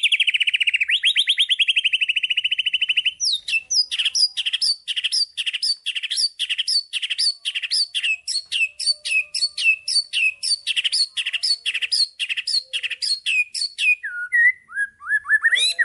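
Songbird singing: a fast, rattling trill for about three seconds, then a long run of quick repeated whistled notes sweeping downward, about three a second, dropping to lower notes near the end.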